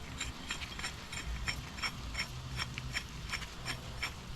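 Ratchet clicking steadily, about four clicks a second, as the threaded rod of a cam bearing installer tool is turned.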